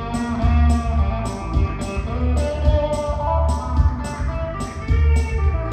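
Instrumental break in a live blues song: guitar playing over bass and a steady beat, with no singing.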